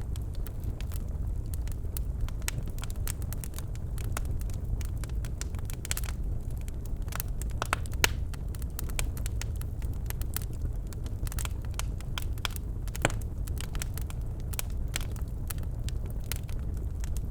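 Birchwood fire burning in a fireplace, crackling with irregular sharp pops over a steady low rumble of the flames; the loudest pop comes about eight seconds in, another about thirteen seconds in.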